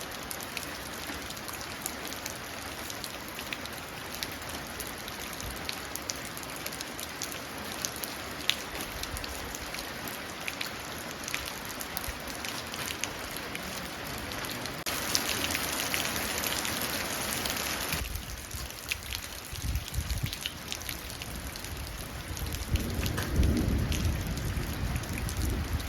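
Steady rain falling and running into a puddle, with many separate drops ticking; it grows briefly heavier about midway. A low rumble of thunder swells up in the last several seconds.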